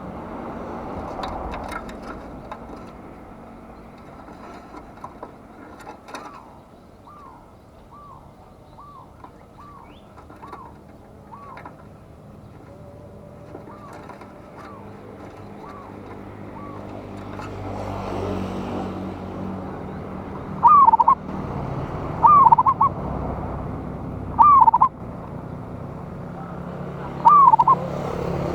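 Zebra dove (perkutut) cooing: a string of soft, evenly spaced coos, then, about two-thirds of the way in, four loud coos about two seconds apart, over a low background rumble.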